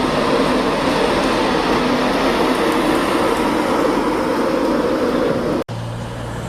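A train running at a station platform, a steady rumble with some held engine tones. About five and a half seconds in it cuts off abruptly, and a steady low engine hum follows.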